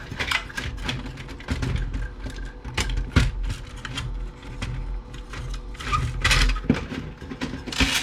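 Irregular clicks, rattles and knocks of the stereo's plastic and metal parts and circuit boards being handled during dismantling, with sharper knocks about three seconds in and again around six seconds.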